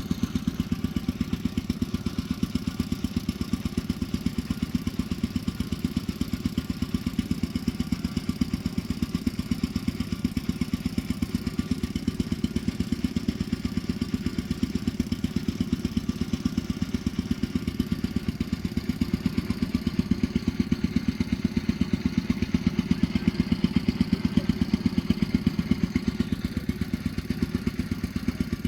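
An engine running steadily, with an even pulsing beat.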